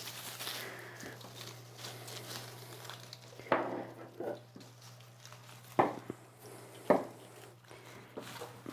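Evergreen foliage rustling as small sprigs are handled and tucked into a rope garland, with a few short, sharp knocks in the second half.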